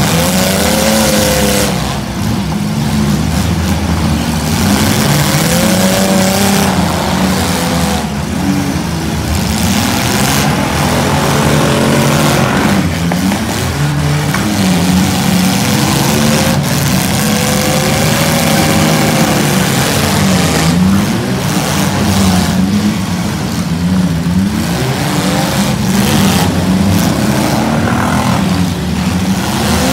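Engines of several six-cylinder demolition derby cars revving up and down together, their pitches rising and falling over one another.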